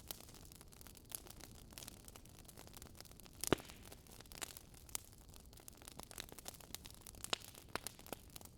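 Wood fire crackling: irregular small pops and snaps, with one louder pop about three and a half seconds in.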